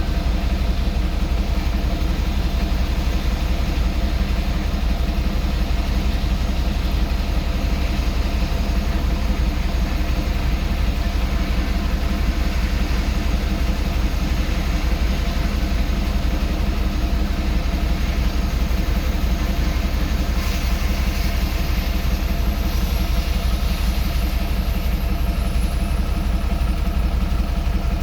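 Leonardo AW169 twin-turbine helicopter running, with a steady rapid thumping from the rotor and a constant turbine whine. In the second half a faint high whine falls slowly in pitch.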